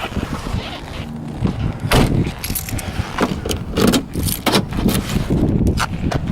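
Keys jangling with a string of sharp clicks and knocks, the loudest about two seconds in, from handling keys and the car with its engine switched off.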